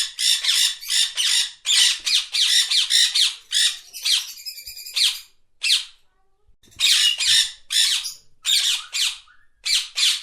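Rose-ringed parakeet squawking in rapid runs of shrill, harsh calls, with a pause of about a second around six seconds in before the calls resume.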